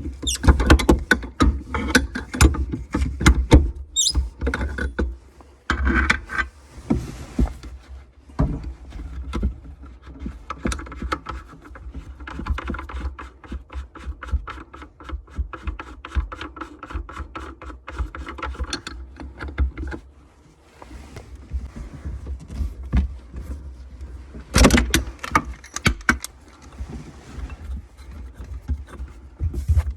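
Hand tools working on washbasin faucet fittings: a string of metallic clicks, knocks and scrapes, with a long run of quick, even clicks like a wrench or ratchet being worked, and a burst of louder knocks near the end.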